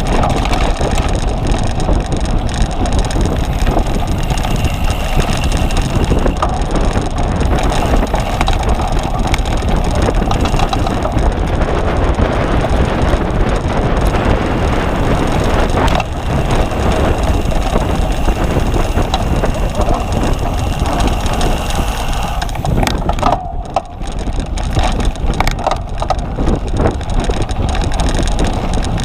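Cyclocross bicycle ridden over rough ground, with steady rattling and knocking and wind rushing over the microphone.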